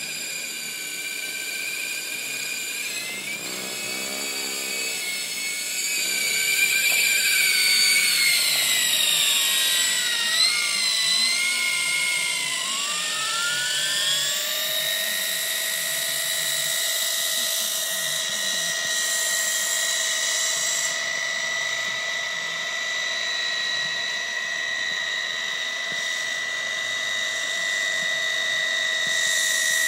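Electric 380 motor and rotors of a large W908-1 RC toy helicopter whining; the pitch climbs, wavers and dips as the throttle changes, loudest in the middle, then settles into a steady high whine for the second half.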